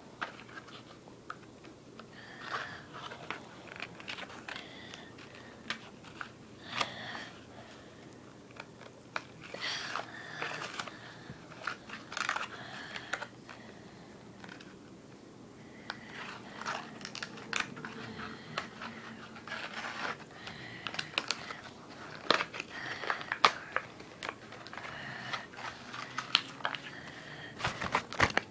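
Toy packaging being opened by hand: irregular crinkling and crunching of plastic and cardboard, with many sharp clicks, busiest in the last third.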